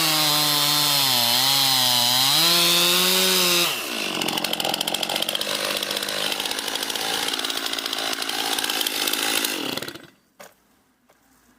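Chainsaw running hard, its pitch dipping and recovering as it works, typical of cutting wood. About four seconds in, it drops to a lower, rougher running. It stops about ten seconds in, followed by a single click.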